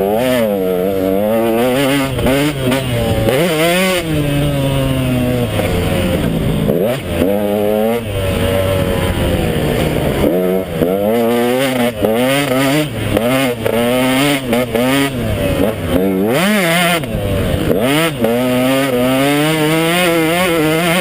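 KTM 150 XC two-stroke dirt bike engine, loud, revving up and down again and again as the throttle is opened and closed, its pitch rising and falling with brief drops in between.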